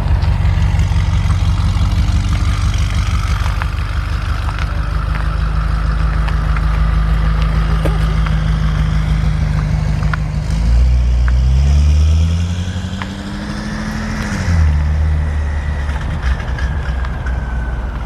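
BMW M8 Competition's twin-turbo V8 running steadily at a low idle. About ten seconds in, the engine note climbs gradually for about four seconds as the car accelerates, then drops back to a steady lower note.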